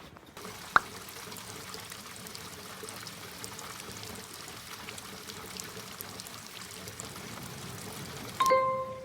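Water pouring steadily, with a sharp click about a second in. Near the end comes a loud knock that rings on with a clear, steady tone.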